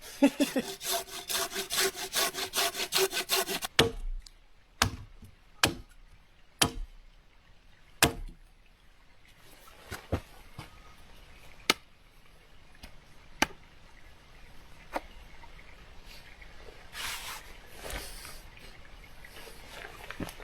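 Wood being sawn by hand with quick, even strokes for about four seconds, then a scattering of separate sharp knocks and clicks.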